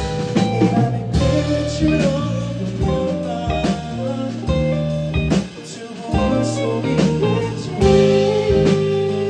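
Live rock band playing an instrumental passage: electric guitar over bass and drum kit, with a brief drop about five and a half seconds in before the full band comes back in.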